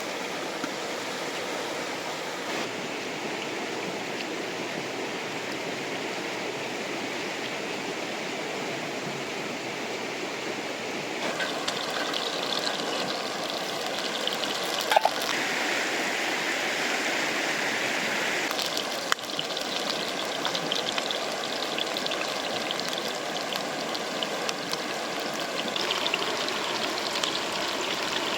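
River water rushing steadily, with a few sharp clicks about halfway through.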